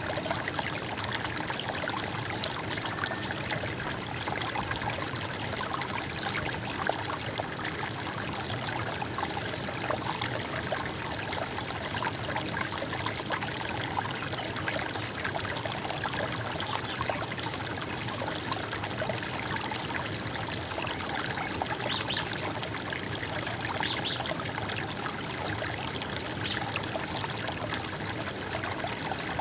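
Running water flowing steadily, like a small stream or brook gurgling over rocks.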